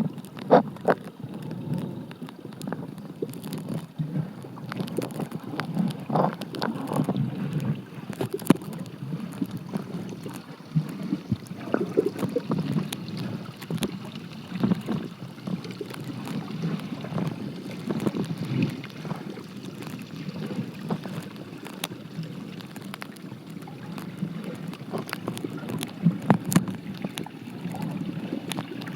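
Stream water heard from underwater: a muffled, low rushing rumble with bubbling and scattered clicks and pops.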